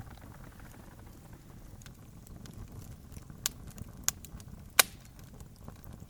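Wood campfire crackling over a steady low rumble, with scattered small snaps and three sharp pops in the second half, the last of them the loudest.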